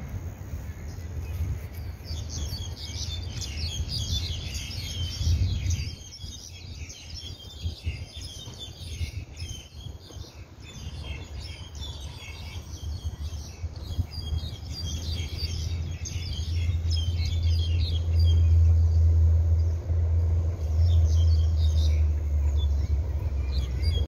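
Many small birds chirping and tweeting in a dense chorus that thins out over the last several seconds, over a low rumble that grows louder in the second half.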